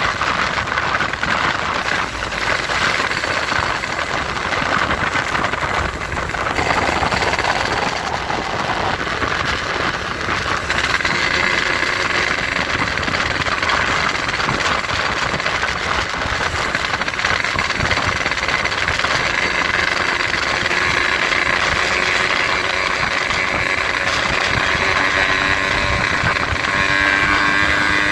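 Motorcycle engine running through a gutted 'bobokan' exhaust muffler, steady and loud, its note rising a little near the end.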